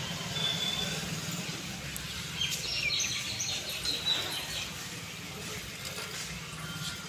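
Small birds chirping in short high calls, most of them bunched in the first half, over a steady low background hum.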